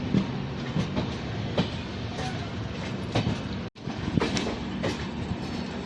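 Shatabdi Express passenger train running, with a steady rumble and the clickety-clack of its wheels knocking over rail joints every half second to a second. The sound cuts out for an instant about two-thirds of the way through.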